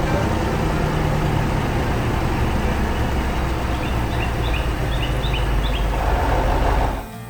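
Excavator's diesel engine running steadily under load, with birds chirping faintly about two-thirds of the way through; the engine sound cuts off abruptly near the end.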